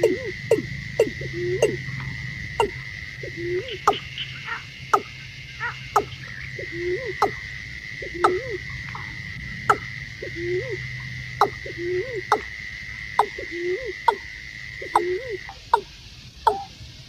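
Watercock calling: a repeated series of short, hollow, croak-like notes, about one or two a second, mixed with sharp clicks. A steady high whine runs under it and stops near the end.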